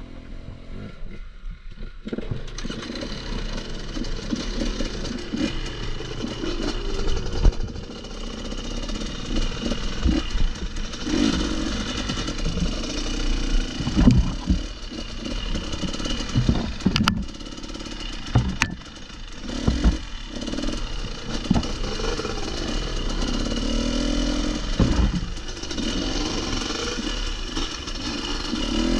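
Off-road motorcycle engine revving in repeated short bursts and dropping back, with knocks and clatter from riding over rocky ground. There are two sharp clicks about two-thirds of the way in.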